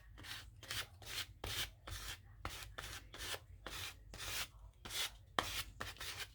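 Rhythmic rasping strokes on paper, about three a second, from paper being worked by hand.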